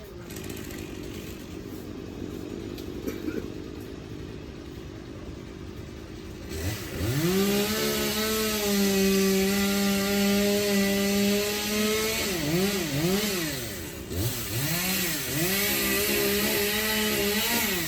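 Two-stroke chainsaw idling low, then revved up about six seconds in and held at high speed for several seconds. Near the end it is throttled down and up again several times.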